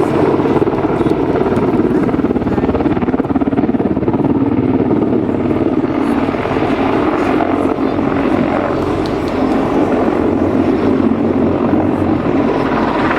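Mil Mi-26T2 heavy transport helicopter, with its twin turboshaft engines and eight-blade main rotor, running with a loud, steady rotor and turbine noise and a low hum.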